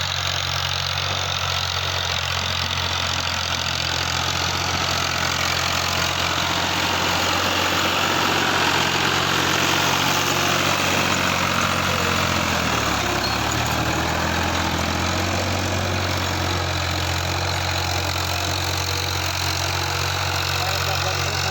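Tractor diesel engine running steadily, with a low, even beat. About twelve seconds in, its pitch sags briefly and then picks back up to the same speed.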